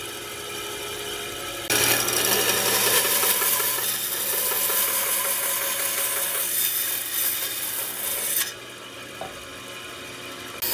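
A power tool working wood: a loud, rough grinding noise over a steady motor hum that starts about two seconds in and stops about eight and a half seconds in, with quieter tool noise before and after.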